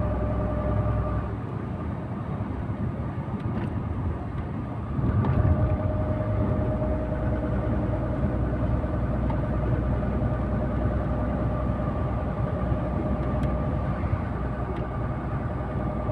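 Steady engine and road noise inside the cab of a KamAZ 4308 truck under way. A steady whine runs over it, drops out a little over a second in and returns about five seconds in, when the engine sound grows louder.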